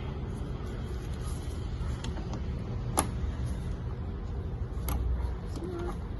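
Steady low rumble with two sharp clicks, about three seconds in and again near five seconds, as fasteners go into the plastic splash shield under the car.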